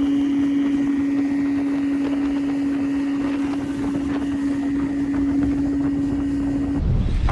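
Bass boat's electric trolling motor humming at one steady pitch over a wash of water and wind noise. The hum cuts off near the end and a loud rumble of wind or handling noise follows.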